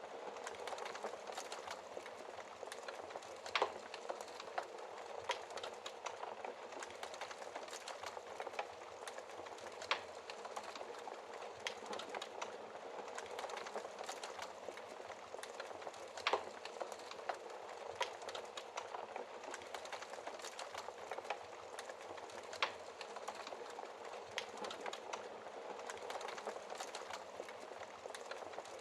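Wood fire in a fireplace crackling: a steady soft hiss and sputter with frequent small pops and a few sharper snaps.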